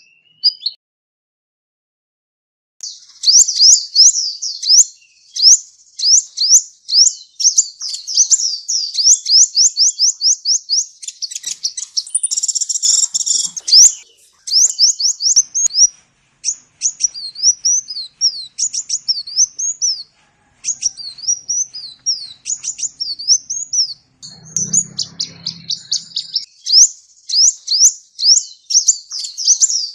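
Sunbird (the bird Indonesian keepers call 'kolibri') singing: rapid, very high-pitched chirps strung into fast trills and run-on phrases with short breaks. It starts after a brief pause.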